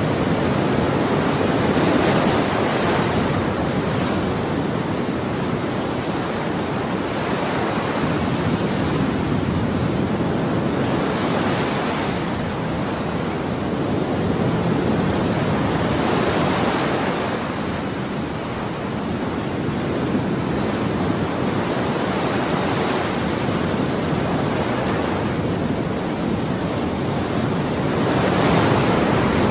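Ocean waves breaking and washing ashore, a steady surf hiss that swells every four to six seconds as each wave comes in.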